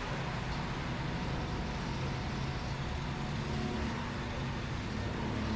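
Go-kart engine running steadily, heard from onboard the kart.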